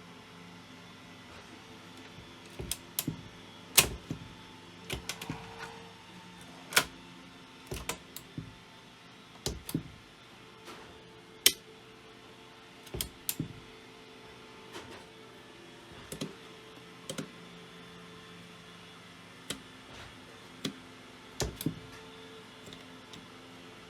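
Irregular sharp clicks and knocks, a couple of dozen of them, at no steady rhythm, from hands and tools working on a cassette deck during repair. A steady low hum runs underneath.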